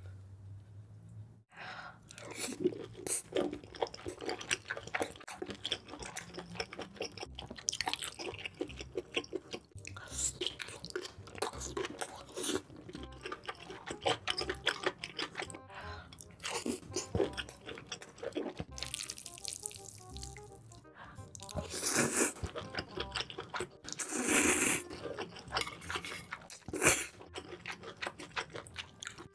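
Close-miked chewing of a big mouthful of spicy braised octopus: many quick wet mouth clicks, with a few louder bursts about two-thirds of the way through. Background music plays underneath.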